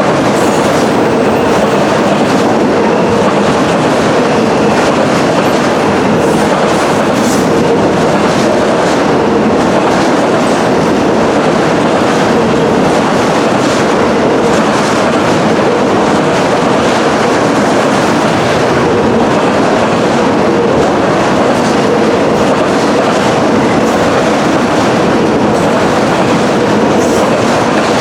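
Norfolk Southern freight train cars rolling past at close range: a steady, loud rumble and rattle with wheel clicks over the rail joints and a steady hum.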